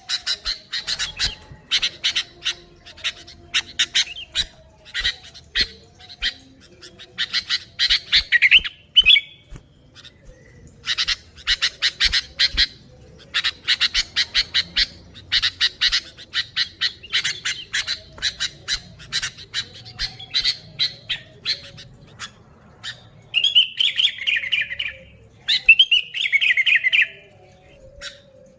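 Sooty-headed bulbuls (kutilang) calling excitedly in long runs of rapid, harsh chattering notes. Near the end come a few short warbled song phrases.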